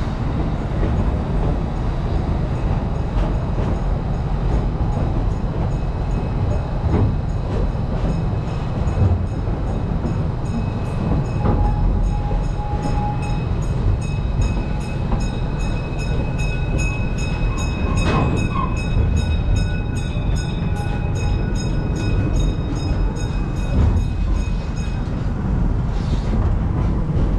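Open-sided passenger cars of a park railway rolling along the track, a steady rumble with faint regular clicking through the middle stretch.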